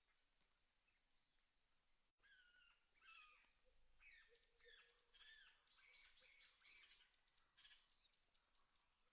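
Faint rural nature sounds: a steady high insect drone, then, after a brief dropout about two seconds in, a bird calling in repeated short falling notes over fast insect trilling.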